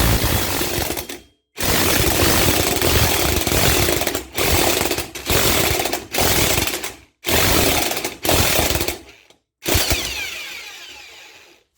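Impact gun hammering on the crankshaft pulley nut in a series of about seven bursts with short pauses between, breaking the nut loose. The last burst winds down slowly.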